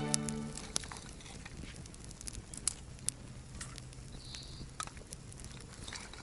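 Wood fire crackling, with irregular sharp pops and snaps. Background music fades out in the first second.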